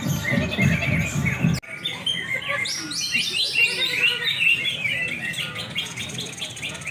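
Several caged greater green leafbirds (cucak hijau) singing at once, a dense overlapping chorus of rapid chirps and trills. A low musical backing is heard under it at first and cuts off abruptly about a second and a half in.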